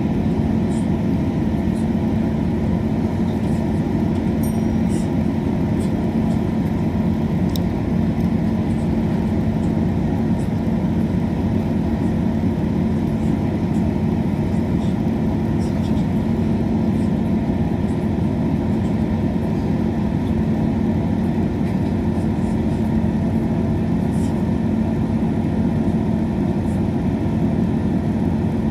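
Steady running noise inside a diesel passenger train carriage: an even engine and rail drone with a constant hum, the train moving between stations.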